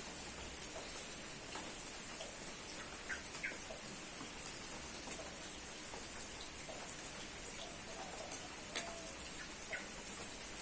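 Steady rain falling, an even hiss with scattered drop ticks and a few short high chirps.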